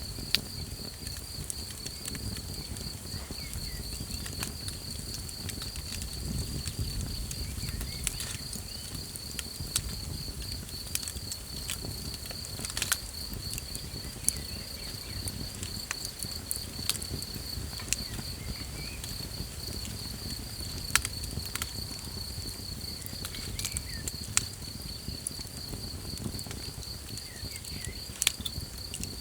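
Wood campfire crackling, with scattered sharp pops, over a steady, fast-pulsing trill of night insects and a low rumble.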